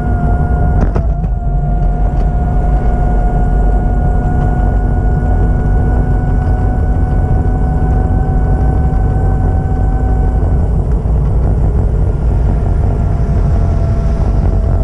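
Vehicle engine running steadily: a heavy low rumble under a constant whine that rises slightly and stops about ten seconds in, with a sharp click about a second in.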